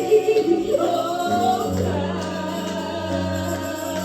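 Gospel praise-and-worship music: singing over sustained chords, with a low bass note coming in about a second and a half in.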